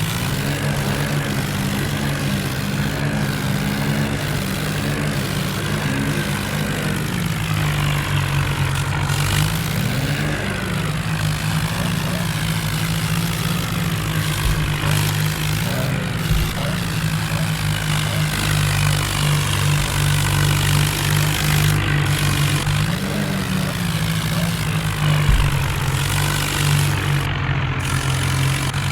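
Diesel tractor engine running hard and steady, its note rising and falling a few times as the throttle changes.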